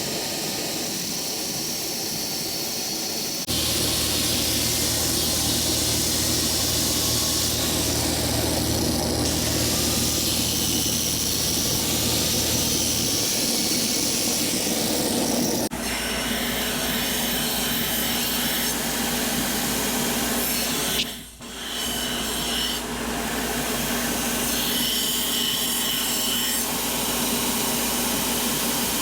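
An abrasive power tool grinding metal, a continuous rasping noise. A steady motor hum runs under it for the first part, and the sound changes abruptly a few times, with a brief drop about two-thirds of the way in.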